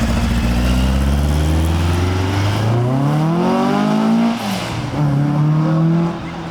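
Car engine accelerating hard: its pitch climbs steadily, drops sharply at an upshift just after four seconds in, then pulls again in the next gear before easing off near the end.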